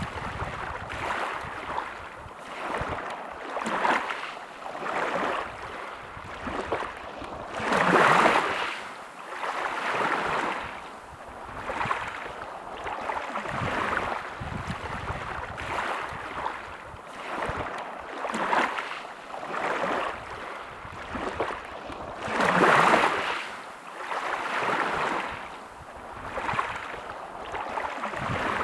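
Sea waves breaking and washing up a beach, rising and falling every couple of seconds, with two bigger waves about eight seconds in and again past the twenty-second mark.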